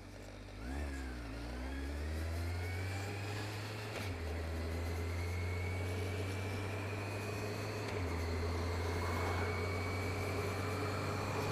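Kawasaki Z750 motorcycle engine pulling away and accelerating, its pitch climbing and dropping back twice as it shifts up through the gears.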